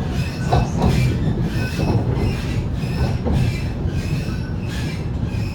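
Waratah A set electric train running along the track, heard from inside the carriage: a steady low rumble of wheels on rail with a regular clatter about twice a second and some thin wheel squeal.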